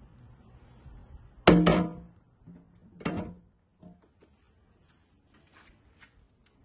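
Two thunks, each with a brief ringing tail, about a second and a half apart; the first is louder, and a few faint clicks follow.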